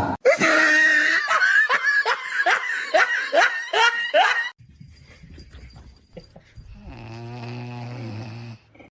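Loud laughter, a rapid run of short falling 'ha' sounds lasting about four and a half seconds, followed by a quieter low steady hum near the end.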